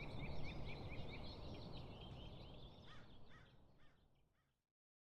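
Birds chirping over a low outdoor rumble. A quick series of short, evenly repeated chirps gives way to scattered calls, and all of it fades out about four seconds in, ending in dead silence.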